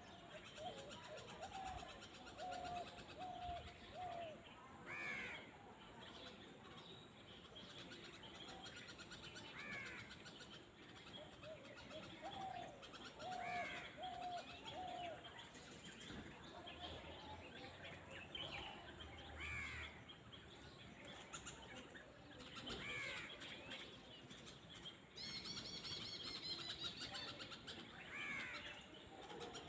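Birds calling outdoors: a short, higher call repeats every four to five seconds, and twice a run of about four lower notes is heard, over faint background noise.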